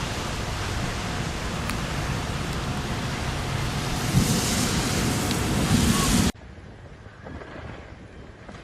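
Strong storm wind blowing hard across the microphone, gusting louder about four seconds in. It cuts off abruptly about six seconds in to a much quieter, faint background.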